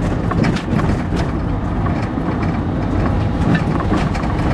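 Road and running noise of a 2004 Ford Focus being driven: a steady low rumble with scattered small clicks and rattles.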